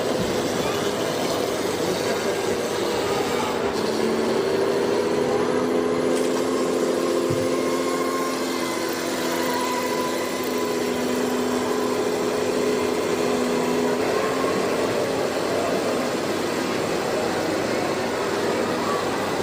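Small electric motor and gears of a toy vehicle running steadily, with a steady hum of several held tones through the middle stretch.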